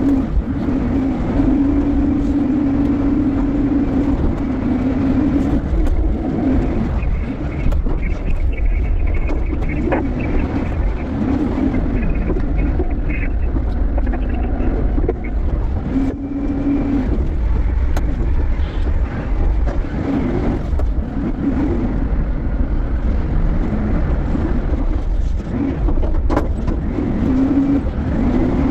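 Diesel engine of an empty container handler running with a steady low rumble, its engine note rising and falling every few seconds as it works.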